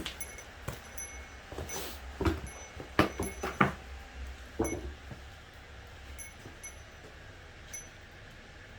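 Wood-fired cauldron furnace being stoked: a run of sharp knocks and clinks, several in quick succession around the middle, as firewood and fire tools are handled at the firebox.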